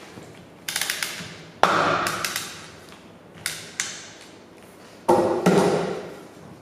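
A series of about six sharp taps or knocks, irregularly spaced, each ringing out and fading over about a second.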